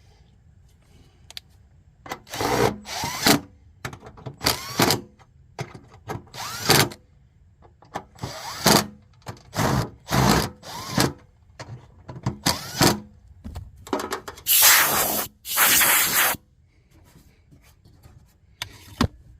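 Hands-on work with parts and tools: a string of short rubbing, scraping noises, about a dozen, with one longer one of about two seconds near the end.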